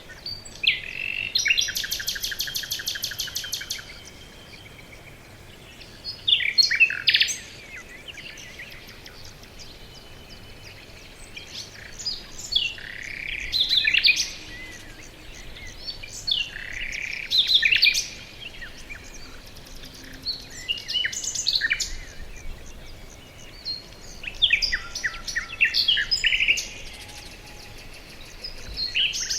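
Songbirds singing in a forest, in separate phrases a few seconds apart. Near the start there is a fast, even trill lasting about two seconds, and a faint steady hiss fills the gaps between phrases.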